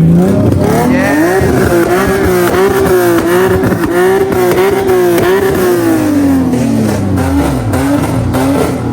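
High-performance car engine revved hard and loud: the pitch climbs and is held high with a wavering, bouncing pitch for several seconds. It then drops back, and it starts to rise again near the end.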